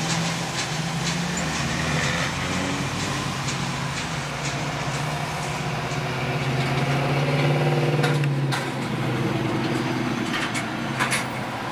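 Freight train's open-top gondola cars rolling past on the rails: a steady low rumble with scattered sharp clicks and rattles from the wheels and cars.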